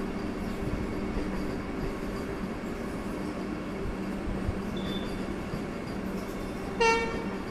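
Vande Bharat Express electric train rolling slowly through a station yard, a steady running hum. A short horn toot sounds once near the end.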